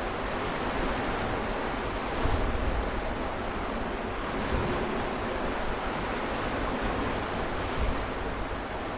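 Sea waves washing against the shore, with wind buffeting the microphone in a few brief gusts.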